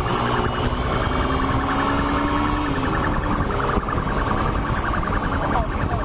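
Police siren sounding with a fast pulsing, warbling pattern over dense background noise.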